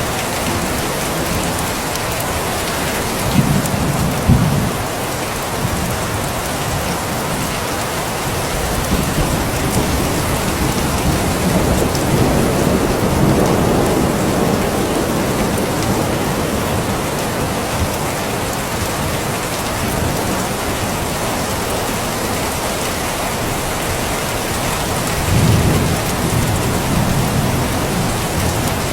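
Steady, heavy rain falling, with low rumbles of distant thunder swelling a few seconds in, around the middle and near the end.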